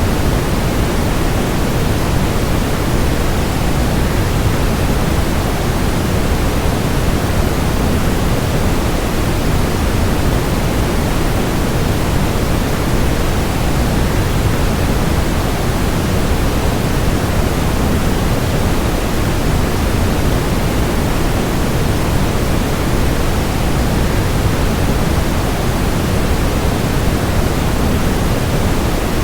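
Steady, unchanging rushing noise of a waterfall blended with white noise, heavier in the low end than the high.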